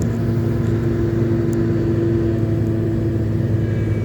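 2010 Toyota Tundra pickup engine idling steadily just after a cold start at minus 31 °C, without a block heater or boost, on a truck with 312,000 km.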